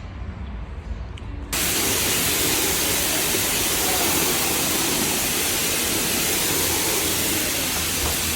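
Self-serve car wash pressure wand switching on about a second and a half in, then a loud steady hiss of spraying water on the pre-soak setting.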